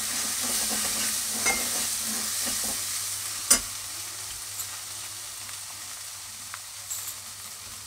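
Onion and ginger-garlic paste sizzling in hot oil in a nonstick kadhai, with a steel spatula scraping and stirring through it for the first few seconds. One sharp knock of the spatula on the pan about three and a half seconds in, then the paste keeps sizzling steadily.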